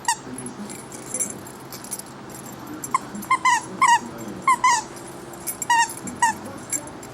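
A dog giving about ten short, high-pitched whimpering yips in quick clusters during play, mostly in the second half.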